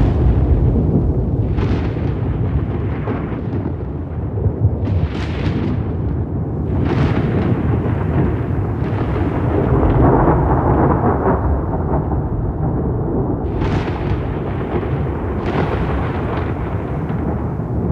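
Rolling thunder: a continuous deep rumble, broken by several sharper cracks that flare up and die away every few seconds.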